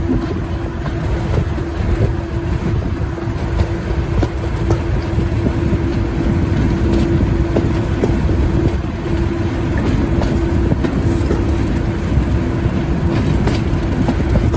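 Diesel locomotive and train running on a heritage line: a continuous low engine rumble with a steady held tone, and scattered clicks of wheels on the rails.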